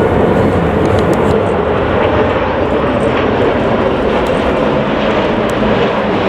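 Jet airliner engines running loud and steady at close range, a dense roar that comes in abruptly at the start.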